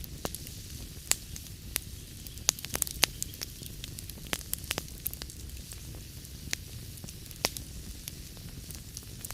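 Wood fire crackling in a fireplace: irregular sharp pops and snaps over a low steady rumble, with a quick run of pops about two and a half to three seconds in.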